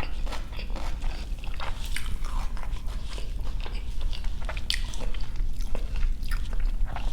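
Close-miked chewing of a mouthful of beef jianbing, with irregular crunching and crackling bites.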